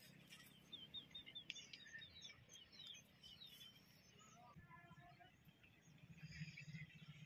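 Faint birds chirping outdoors: a quick run of short, high chirps over the first few seconds, then a brief call about halfway through.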